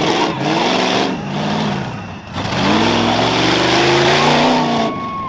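Modified 2001 Jeep Cherokee rough truck's engine revving hard on a dirt course: it eases off about one and a half seconds in, then climbs steadily in pitch under acceleration for about two seconds.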